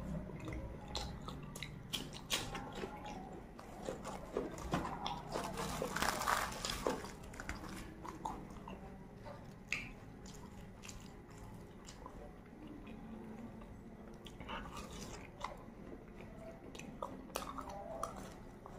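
Close-miked chewing and wet mouth sounds of someone eating puri with beef keema curry by hand. Small crackles and clicks come throughout, busiest around six seconds in.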